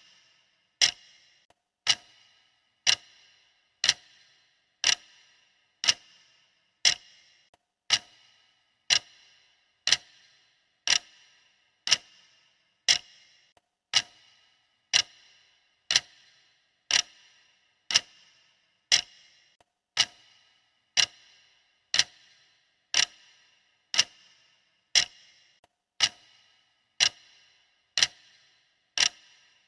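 Clock-style ticking of a countdown timer's sound track: one sharp tick about every second, each with a short ringing decay, keeping an even pace.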